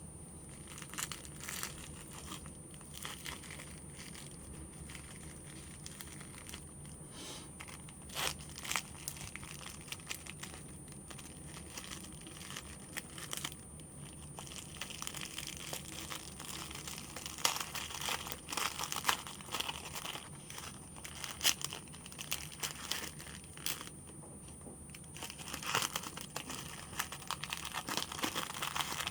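Plastic food packaging crinkling and tearing as it is handled, in many short crackles that become busier about halfway through.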